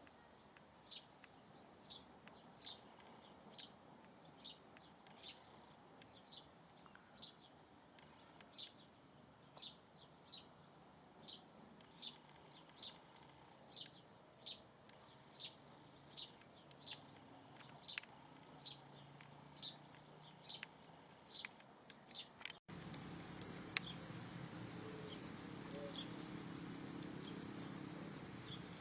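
A bird repeating a short, high, falling call evenly, about once every three-quarters of a second. About 23 seconds in, the sound cuts abruptly to a noisier background with a low hum and only a few faint chirps.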